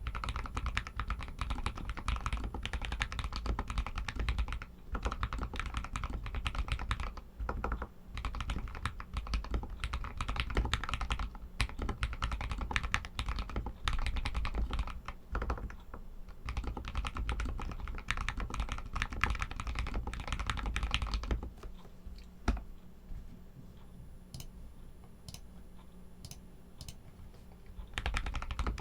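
Royal Kludge RK61 mechanical keyboard with Outemu Red linear switches being typed on in quick runs of keystrokes. About three-quarters of the way in the typing pauses, leaving only a few isolated key clicks, then picks up again near the end.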